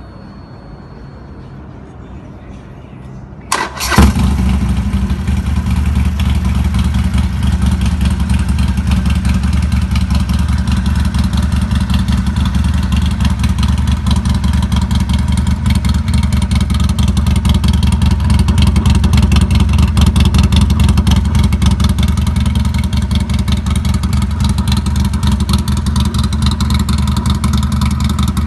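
Harley-Davidson Sportster Forty-Eight's air-cooled V-twin, breathing through a Two Brothers Gen-II 2-into-1 exhaust, cranked on the starter about three and a half seconds in, catching almost at once, then idling steadily with a loud, fast, even pulse.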